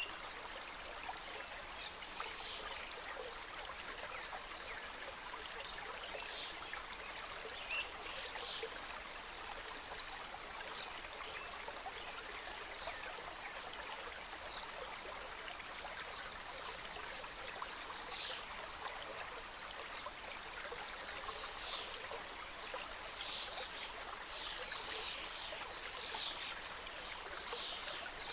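Small mountain stream cascading over rocks, a steady rushing and trickling of water. Short high-pitched sounds are scattered over it, more of them near the end.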